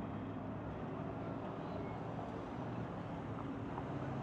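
Car engines running steadily at low speed, with outdoor traffic noise.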